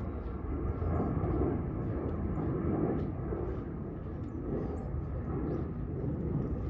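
Outdoor ambience: a steady, distant engine-like rumble, with faint, scattered small ticks.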